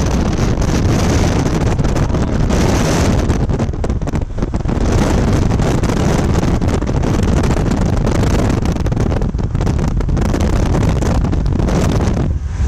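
Loud wind rumble buffeting the microphone: a dense, unbroken noise heaviest in the low end, rising and falling in gusts with a few brief dips.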